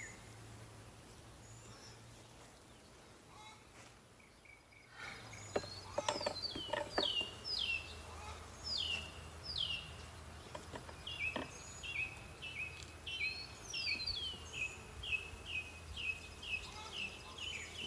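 A songbird sings a long series of clear, downward-slurred whistled notes, speeding up into a quick run of short chirps near the end. A few sharp clicks and knocks come in between, and a faint low hum runs underneath.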